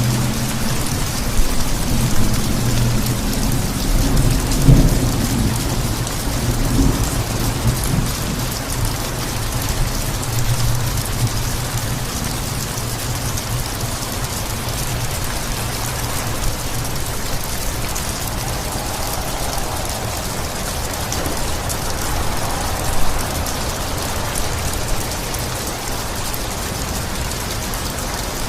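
Steady rain falling, with a rolling thunder rumble in the first half that is loudest about five seconds in and then dies away.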